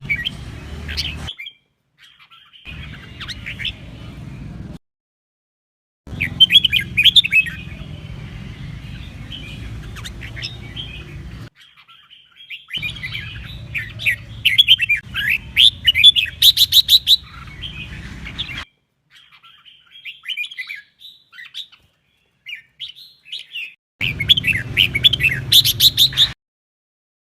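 Red-whiskered bulbul singing: bursts of quick chirping, warbling phrases broken by short silences, with fast runs of sharp repeated notes about two-thirds of the way through and again near the end.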